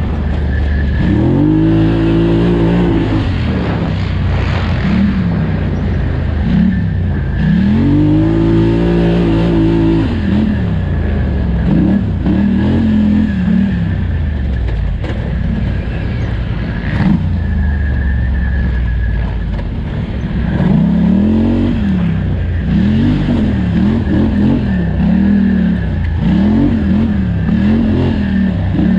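2018 Polaris Scrambler 1000xp's twin-cylinder engine under racing throttle, revving up and dropping back again and again as the rider gets on and off the gas. There are two long climbs early on, then quick, closely spaced rises and falls near the end.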